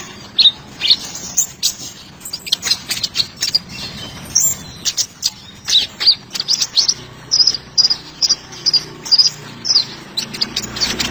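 Kolibri ninja sunbird singing: a rapid, continuous run of short high-pitched chirps and twitters, several a second.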